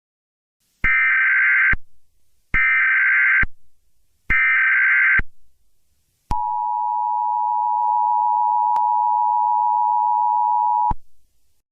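Emergency Alert System tones: three data bursts of the SAME header, each about a second long, then the steady two-tone attention signal, held for about four and a half seconds.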